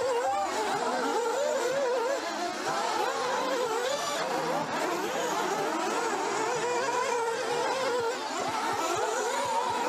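Several nitro RC buggies' small two-stroke glow engines buzzing together as they race, their pitches rising and falling as each car accelerates and slows around the track.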